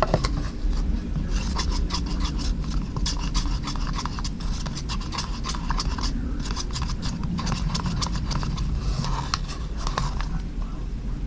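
A plastic spoon stirring a runny slime mixture in a container: quick, irregular scraping and clicking strokes, over a steady low hum. The mix stays thin like soup, so the slime has not set.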